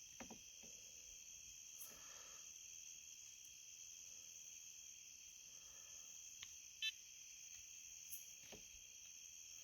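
Faint, steady chorus of insects, crickets or similar, in a near-silent outdoor setting, with a short click about seven seconds in.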